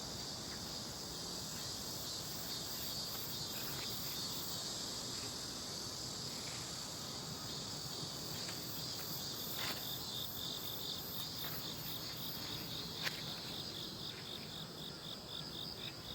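Crickets and other insects chirping together: a steady high trill with evenly pulsed chirps over it, and a second, lower chirp at about three pulses a second joining about halfway through. A couple of faint clicks.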